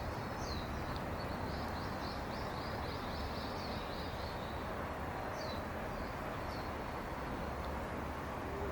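Steady outdoor background noise with a small bird chirping: a quick run of high chirps near the start, then two more a few seconds later.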